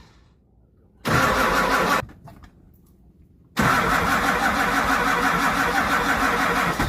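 7.3-litre V8 diesel being cranked over by its starter for a cold start without glow plugs, helped by starting fluid: a short crank of about a second, a pause, then a longer steady crank from about three and a half seconds in.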